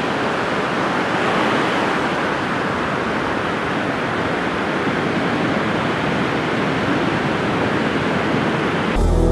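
Ocean surf: a steady rushing wash of breaking waves that cuts off abruptly near the end.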